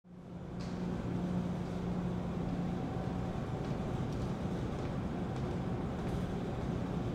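Steady background rumble with a low hum, fading in just after the start and then holding even.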